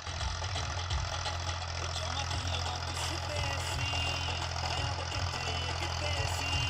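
Tractor diesel engine running steadily at a low, even rhythm, with faint music playing over it.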